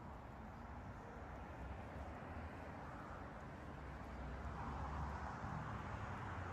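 Street ambience with a low traffic rumble; a passing vehicle's tyre noise swells about four to five seconds in, then eases.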